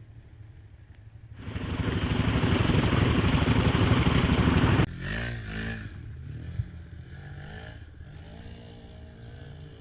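Quad engine running, drowned by a loud rush of noise for about three seconds. After an abrupt change it revs up and down a few times and settles to a quieter, steadier running note.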